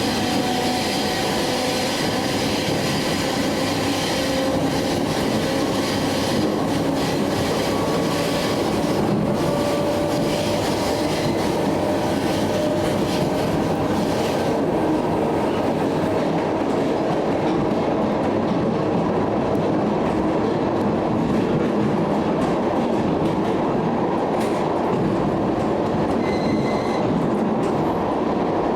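A train rolling along the station tracks: a steady, loud running noise with thin, slowly rising tones and a few short knocks.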